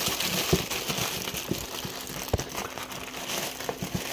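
Crinkling and rustling of plastic-wrapped firework packs being handled, with scattered light knocks and clicks.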